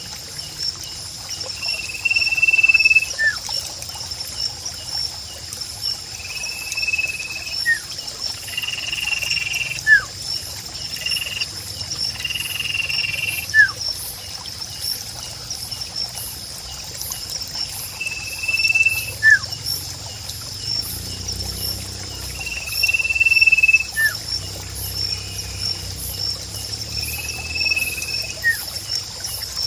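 Nature ambience with a steady, high, pulsing insect drone throughout. Over it, a short falling chirp is followed by a held, one-pitch call about a second long, and the pair repeats every three to four seconds.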